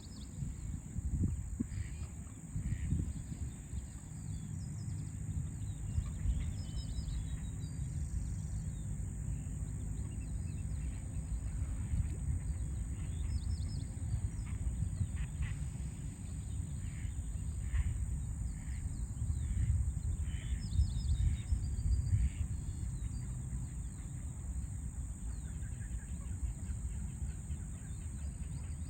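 Birds chirping in short, scattered calls over a steady low rumble of distant city traffic.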